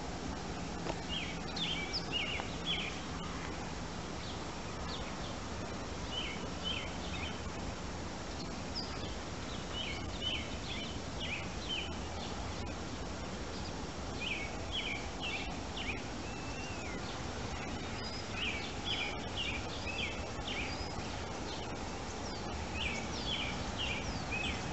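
A songbird singing short phrases of quick high chirps, repeated about every four seconds, over a steady outdoor background noise.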